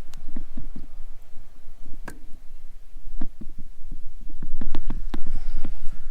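Campfire crackling, with irregular sharp pops and one louder crack about two seconds in, over a steady low rumble.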